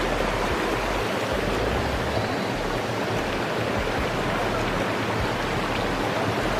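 Creek water rushing over rocks, a steady, even hiss.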